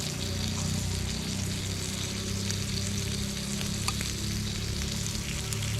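Meat and fish frying in a pan over a camp stove: a steady sizzle with small crackles, over a steady low hum.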